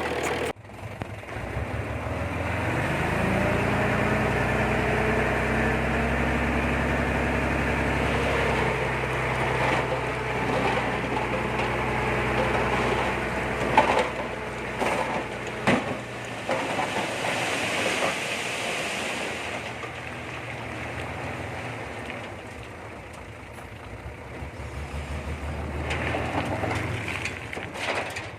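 Komatsu D20P bulldozer's diesel engine revving up and running steadily under load, with several sharp metal clanks about halfway through. It then eases off and revs up again near the end.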